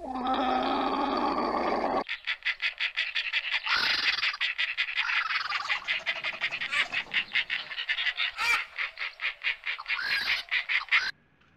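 A rapid pulsing series of animal calls, several a second, keeping up for about nine seconds and then cutting off suddenly. It follows a shorter wavering call that is lower in pitch, in the first two seconds.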